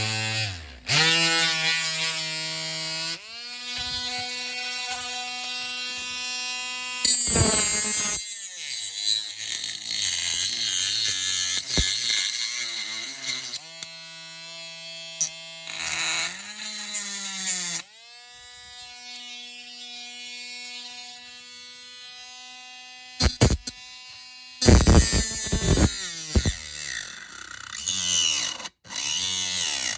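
Small handheld power tool cutting through a diecast model's interior: the motor whines and its pitch drops and climbs several times as the cut loads and eases, with short harsh grinding bursts twice.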